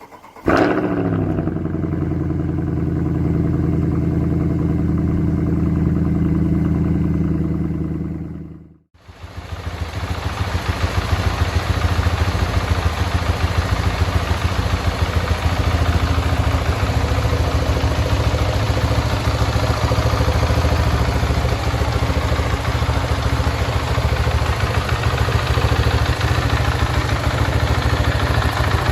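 KTM 690 SMC R's single-cylinder engine catching about half a second in, its note falling back into a steady idle. The sound drops away near nine seconds in, then returns as a steady, noisier run with a pulsing low note.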